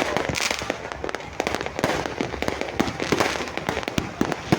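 Many fireworks and firecrackers going off all around at once, a dense, continuous crackle of sharp bangs and pops over a constant din.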